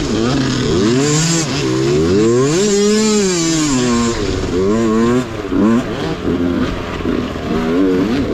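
Mini bike engine revving up and down as the bike is ridden over the trail. There is one long climb in pitch peaking about three seconds in, then quicker rises and dips on and off the throttle.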